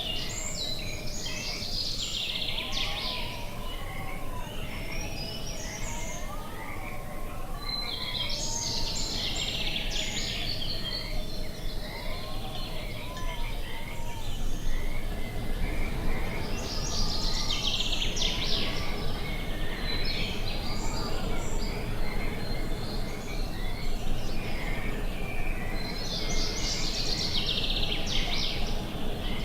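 Outdoor nature ambience of birds singing. One bird repeats a bright song phrase about every eight seconds, over scattered chirps, lower wavering calls and a steady rustling noise.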